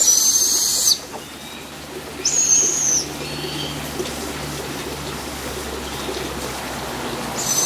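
Young fledgling hawks giving high, thin whistled calls: one in the first second, another about two seconds in and a third near the end, with fainter calls between. These are typical food-begging calls.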